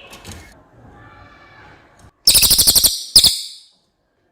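Cililin (small minivet) calling: a loud, rapid string of about ten sharp high notes lasting just over half a second, then a shorter second burst after a brief gap.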